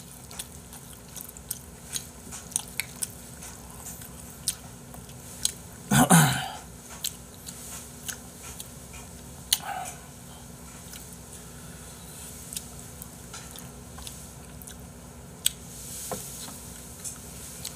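A person chewing and eating stir-fried instant noodles close to the microphone, with many small wet mouth clicks. A louder brief sound about six seconds in.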